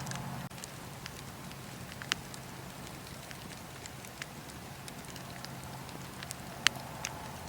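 Wood fire burning in a fireplace: a steady low hiss with scattered sharp crackles and pops, the loudest pop near the end. The hiss briefly drops out about half a second in.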